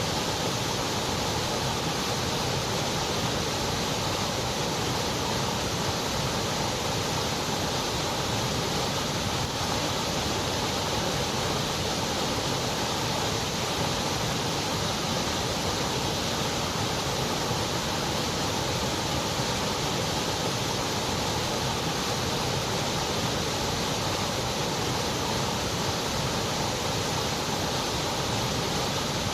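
Steady white noise: an even, unbroken hiss with no changes in level or pitch.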